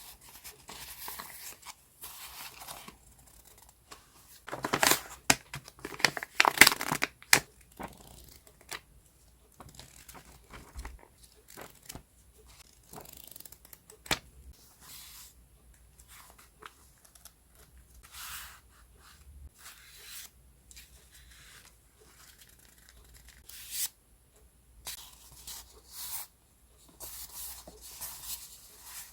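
Sheets of paper and paper decoration stickers being handled, rustled and crinkled in short, irregular bursts with sharp little clicks between quiet pauses. The loudest stretch comes about five to seven seconds in.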